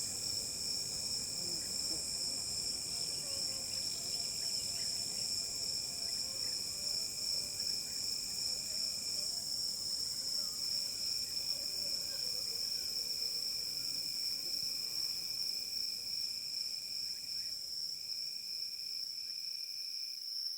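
Steady chorus of trilling insects with two continuous pitches, one high and one lower. The lower trill drops out for about a second near the middle and briefly a few times near the end.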